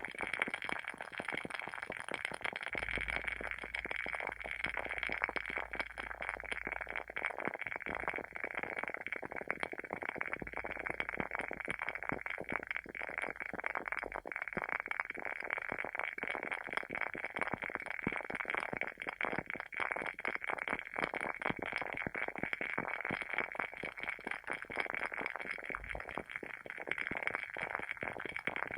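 Wooden wick of a WoodWick candle burning with a continuous dense crackling, like a small bonfire.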